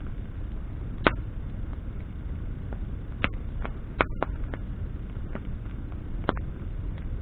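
Campfire of burning branches crackling, with sharp pops about six times over a steady low rumble.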